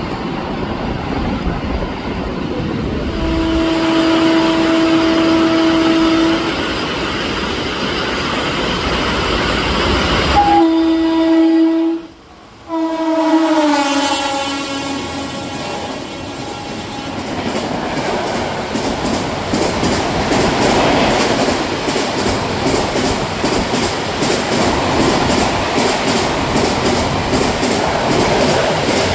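Indian Railways electric passenger locomotive sounding its horn in long blasts as it approaches at high speed, the horn's pitch dropping as it passes. The coaches then rush by with a steady roar and rapid rhythmic clatter of wheels over rail joints.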